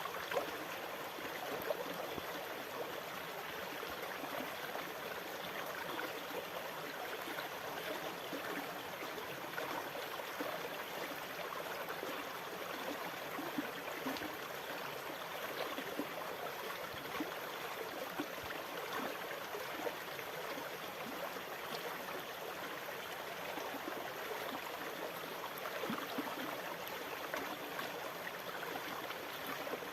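Steady rushing and trickling water, with many small splashes and gurgles and no rise and fall of breaking waves.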